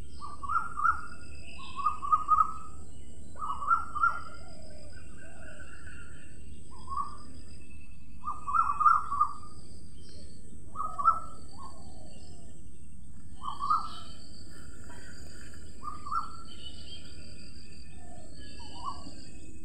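A bird calling over and over in short calls, one every second or two, with fainter higher chirps from other birds, over a steady background hum and a thin high insect-like whine.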